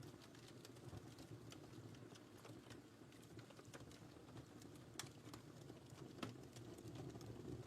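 Faint wood fire crackling: a steady low rumble of burning with scattered sharp pops and snaps throughout, a couple of them louder, about five and six seconds in.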